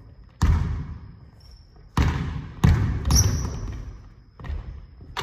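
Basketball bouncing on a gym court, about four irregular dribbles that echo in the hall, with a short high squeak about three seconds in.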